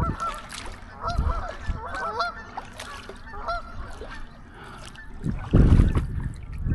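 A flock of geese honking, many short calls overlapping. Loud low rumbles break in briefly about a second in and more heavily near the end.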